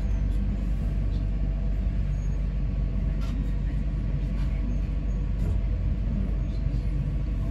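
Electric passenger train running along the line, heard from inside the carriage: a steady low rumble with faint steady humming tones above it.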